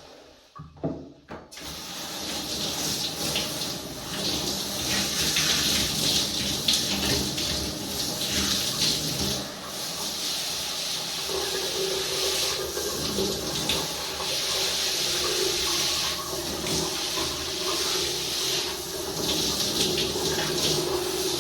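Tap water running steadily, turned on about a second and a half in after a few small knocks, its flow splashing unevenly as hair is washed under it. A low steady hum joins about halfway through.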